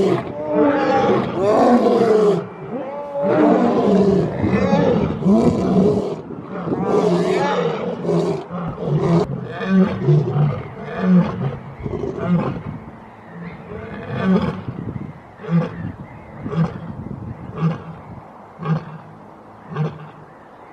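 Lion roaring: several long moaning roars, then a series of short grunting calls about once a second that grow quieter toward the end.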